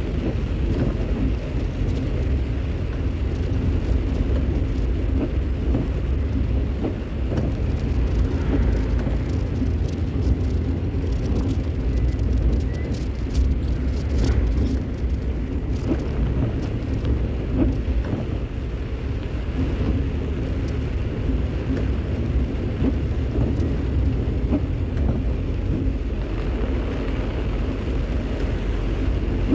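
Vehicle driving in heavy rain: a steady deep rumble with a hiss of rain over it and scattered faint ticks.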